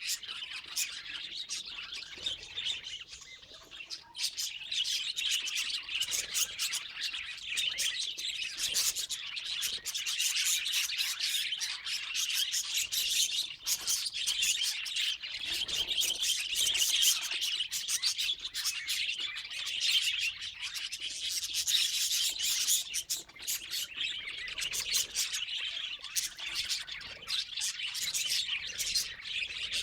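Budgerigars chattering and chirping in a dense, unbroken stream of quick, high-pitched notes.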